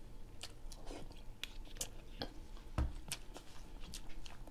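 A person chewing a mouthful of rice and fried fish, with soft wet mouth clicks scattered through, and a single dull thump about three seconds in.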